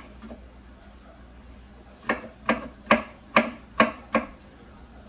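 Knife chopping vegetables on a cutting board: after a short pause, six sharp, even strokes in about two seconds.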